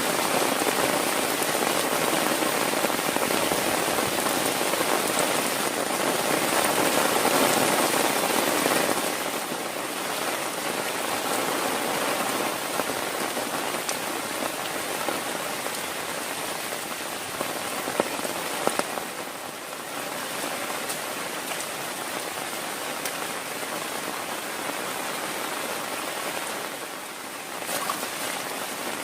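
Heavy rain falling steadily, heaviest in the first nine seconds and easing a little after. There are a couple of sharp taps about eighteen seconds in.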